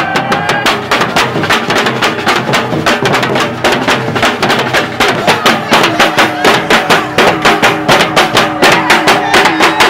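Samba percussion band playing a fast, driving rhythm of many drum strikes; the beat becomes heavier and more pronounced about five seconds in.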